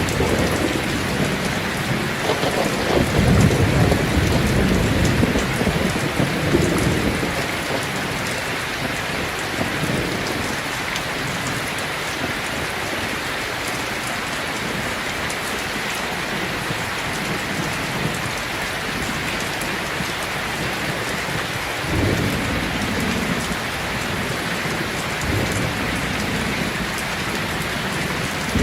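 Steady rain falling, with deep rolling thunder rumbling: one long rumble a couple of seconds in and a second, weaker one about three quarters of the way through.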